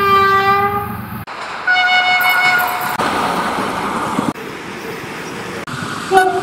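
Short cut-together recordings of trains passing. A locomotive horn blasts at the start, a second, higher horn sounds about two seconds in, and a brief third horn comes near the end. In between is the rumble and rail noise of the passing trains.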